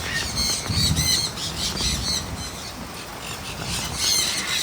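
Aviary birds squawking and chirping, many short high-pitched calls one after another, over the steady hiss of hard rain.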